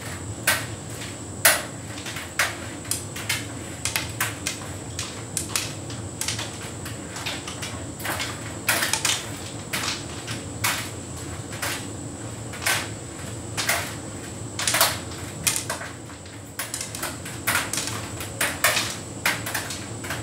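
Hotpoint heat pump tumble dryer running, its drum turning with laundry tumbling and knocking irregularly several times a second over a steady low hum.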